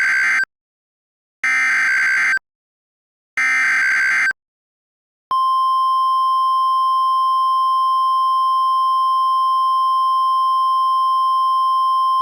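Emergency Alert System / NOAA Weather Radio alert: three short bursts of warbling digital SAME header data tones, the last ending about four seconds in, then about five seconds in a continuous steady single-pitched attention tone starts, signalling that a tornado warning broadcast is about to follow.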